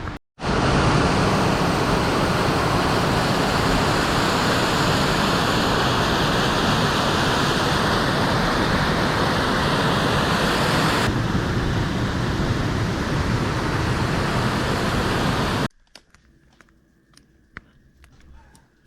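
Large waterfall rushing, a loud, steady wash of water noise that cuts off suddenly near the end, leaving only faint scattered clicks.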